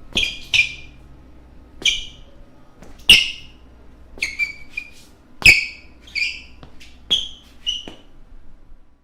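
Basketball shoes squeaking on a court floor: about a dozen short, high squeaks at irregular intervals, some doubled, with soft thuds of footsteps underneath. The loudest squeaks come about three and five and a half seconds in.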